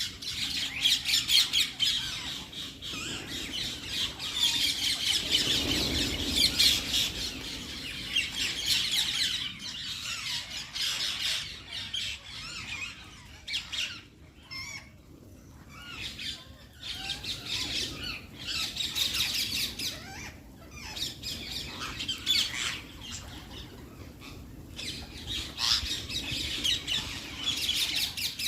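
Parrot calls: rapid, high-pitched squawks and chirps, dense at first, thinning out in the middle and picking up again near the end.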